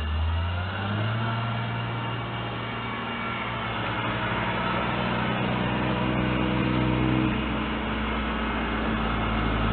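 Road vehicle engine running steadily with tyre and road noise. Its hum steps up in pitch about a second in and shifts again around seven and a half seconds in.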